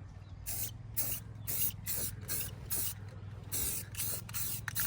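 Aerosol spray paint can spraying white paint onto a truck's body in quick short hissing bursts, a few a second, with a somewhat longer spray near the end.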